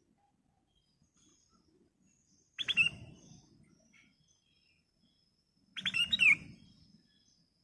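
Black-crested bulbul (kutilang emas) singing two short phrases of quick whistled notes about three seconds apart. The second phrase is slightly longer.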